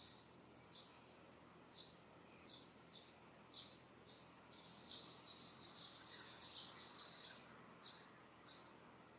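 Wild birds chirping: a series of short, high chirps, spaced out at first, then quickening into a rapid, louder run about five seconds in before slowing again, over a faint steady background.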